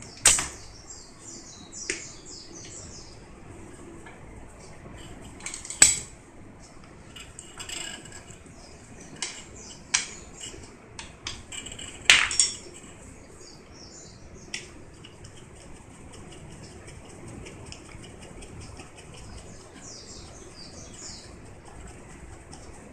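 A handful of sharp metallic clinks and knocks at irregular intervals, the loudest about six and twelve seconds in, with birds chirping in the background.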